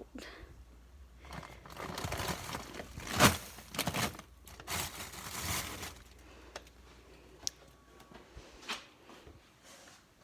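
Plastic freezer bags crinkling and rustling as frozen food packages are handled and shifted in a freezer, with a sharp knock about three seconds in as a package is set down.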